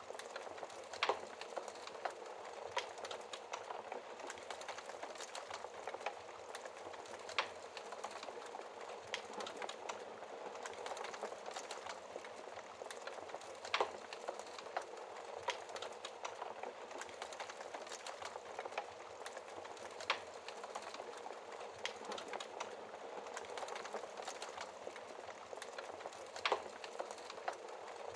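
Wood fire crackling with a steady hiss and many small pops, and a louder sharp snap about every six seconds.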